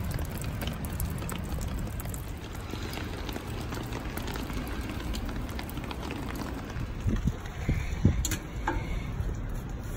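Steady rain falling on wet pavement, a constant hiss with many small drop ticks. A few louder knocks near the end.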